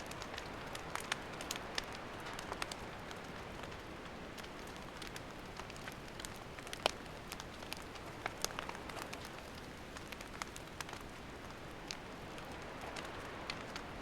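Wood campfire crackling: a steady hiss of burning with scattered, irregular sharp pops and snaps, one louder snap about seven seconds in.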